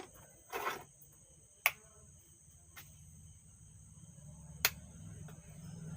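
Sharp clicks and a short rustle from connecting the line input to a Stranger PBT 800 mono amplifier, with a faint high whine throughout. From about three seconds in, a low hum from the amplifier's output slowly rises as the signal comes up.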